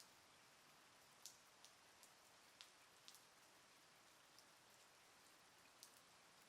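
Faint light rain: a soft steady hiss with scattered single raindrops ticking sharply on a surface at irregular moments.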